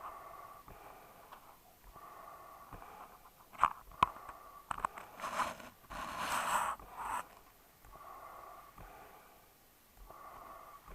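Dog breathing and snorting, with a couple of sharp clicks and a louder snuffle about halfway through.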